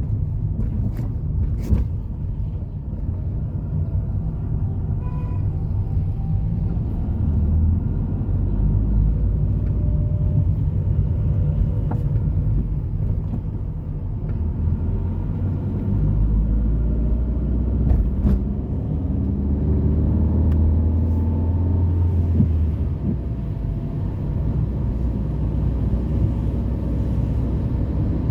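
City street traffic: cars running and passing, a steady low rumble that swells as vehicles go by, with a few sharp clicks.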